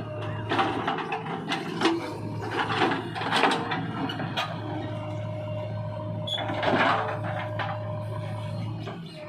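JCB 3DX backhoe loader's diesel engine running steadily, with repeated clanks and knocks from the working machine and a louder clatter about two-thirds of the way through.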